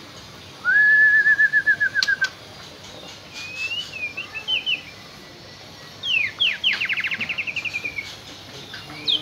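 White-rumped shama (murai batu) singing in full song. It gives a fast, even trill of repeated notes, then a short run of higher chips, then another rapid trill that slides slightly down in pitch.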